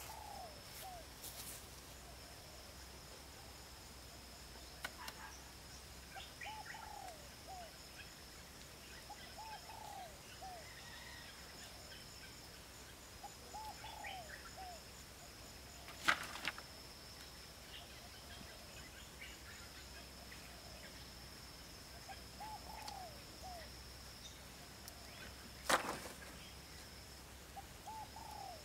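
A bird calling again and again, each call a short phrase of three or four low notes, with a steady high-pitched tone in the background. Two sharp knocks about ten seconds apart are the loudest sounds.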